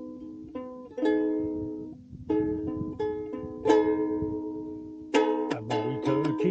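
Ukulele playing: chords struck one at a time and left to ring, then from about five seconds in a quicker, rhythmic strum.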